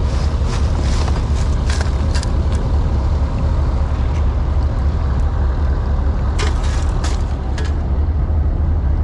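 Steady low engine rumble with a hiss of wind and running noise over it. A few sharp knocks come about two seconds in and again around six and seven seconds.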